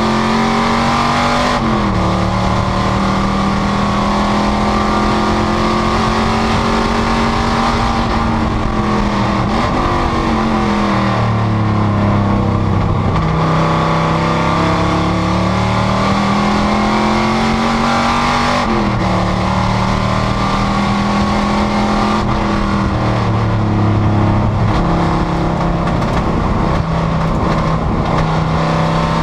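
Panoz GTS race car's V8 engine running hard on track. The pitch climbs steadily under full throttle, drops sharply at upshifts (about a second and a half in and again past the middle), and sags twice before rising again as the car slows for corners and accelerates out.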